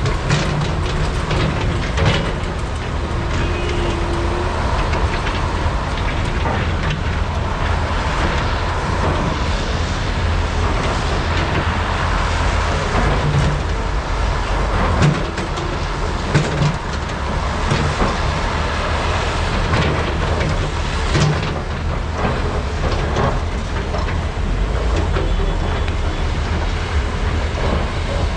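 Large hydraulic excavators' diesel engines running steadily under load while loading, with a few sharp knocks and clanks of bucket and rock about 2, 15, 16 and 21 seconds in.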